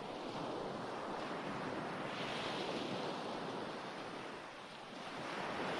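Ocean surf washing in and drawing back, a steady hiss that swells about two seconds in, ebbs, and swells again near the end.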